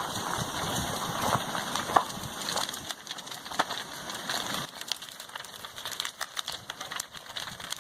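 Lava flow crackling and popping as it engulfs a house: many irregular sharp clicks over a rustling haze, a little quieter after about three seconds.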